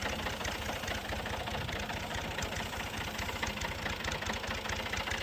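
Tractor engine running steadily with an even, rapid chugging.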